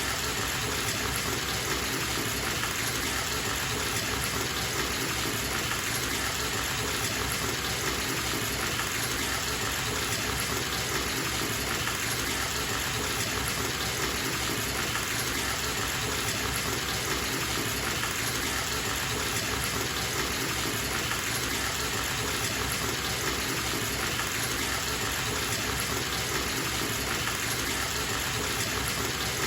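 Bathtub tap running full into the tub, a steady even gush of water.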